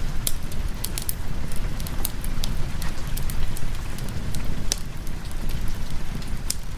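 Fireplace wood fire crackling with scattered sharp pops, over steady rain and a low rumble.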